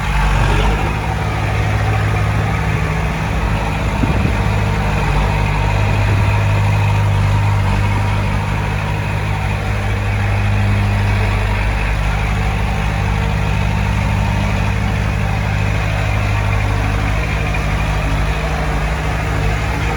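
Heavy diesel engine of earthmoving machinery running steadily, with a brief knock about four seconds in.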